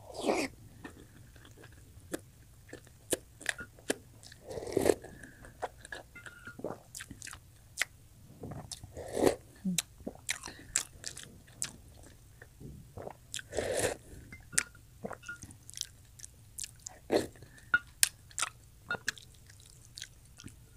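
Close-up eating sounds of a person chewing whole boiled eggs: many sharp wet mouth clicks and smacks, with a few longer, louder mouthfuls every several seconds.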